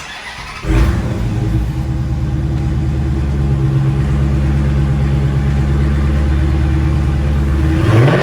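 Dodge Challenger Scat Pack's 392 Hemi V8 exhaust, held at a steady rev for about seven seconds after coming in suddenly just under a second in. The revs climb sharply near the end.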